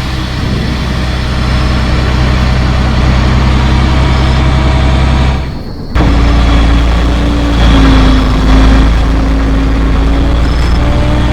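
A vehicle engine running steadily with a deep, low hum. About six seconds in the sound breaks off briefly and comes back with a higher tone that drifts slightly in pitch.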